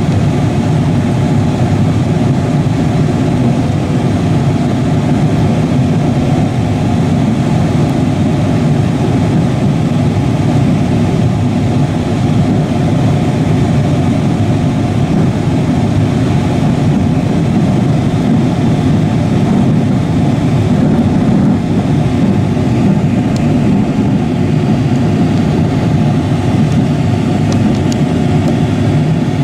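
Freight train of covered grain hopper cars rolling past, a steady low rumble of wheels on rail.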